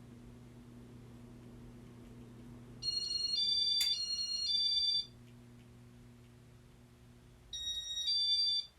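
Two runs of high-pitched electronic beeps stepping between a few tones, typical of the Casablanca Inteli-Touch control acknowledging a command, with a click during the first run. A steady low electrical hum drops out as each run of beeps starts.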